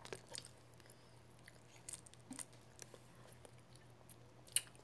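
Faint chewing of garlic butter shrimp eaten by hand, with scattered wet mouth clicks and smacks. A sharper smack comes near the end as fingers are licked.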